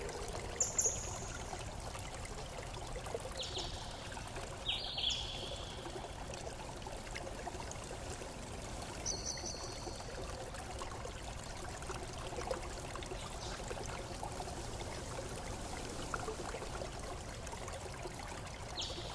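Running water flowing steadily, with a few short, high chirps scattered through it.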